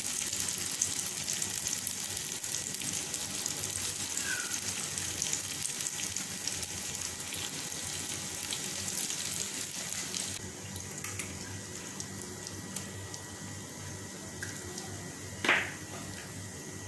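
Oil sizzling steadily under batter-coated potato and carrot strips frying in a pan, quieter after about ten seconds. One sharp knock near the end.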